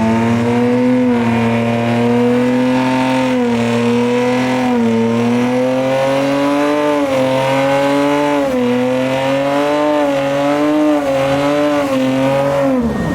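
Dodge SXT's engine held at high revs, its pitch wavering up and down as the throttle is worked, then falling away sharply near the end as it comes off the throttle.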